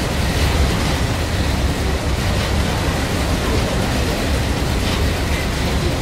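Steady low rumble and hiss of a boat under way through wind and water, with no sudden events.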